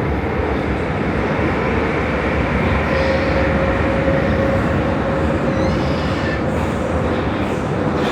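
Prague metro line A train running between stations: a steady rumble of wheels on rail with a whine held at one pitch, and faint brief high squeals in the second half.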